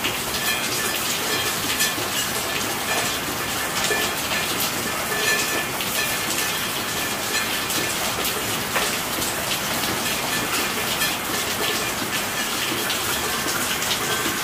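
Steady rain falling, with many separate drop impacts heard through a constant hiss.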